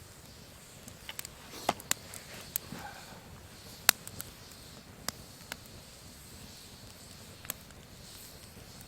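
Dry wood cracking and snapping in sharp, irregular cracks, about ten of them, the loudest about four seconds in, over a faint steady background.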